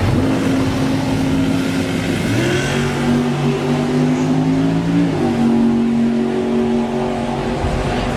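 A motor-vehicle engine held at steady revs. Its pitch steps down a little after two seconds in, shifts again about five seconds in, and fades near the end.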